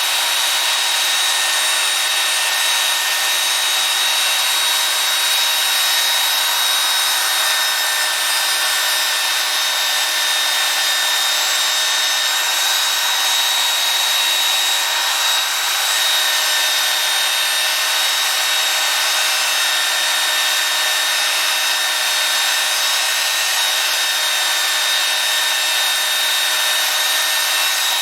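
Belt sander running steadily, with a rasping hiss from a workpiece held against the belt and a steady high whine.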